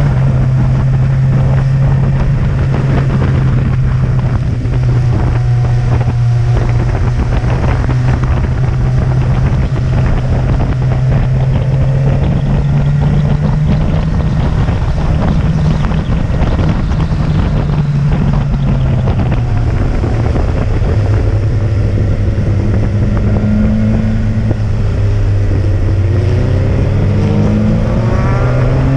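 Motorcycle engine pulling steadily uphill, with wind rushing over the microphone. Near the end the revs climb as it accelerates.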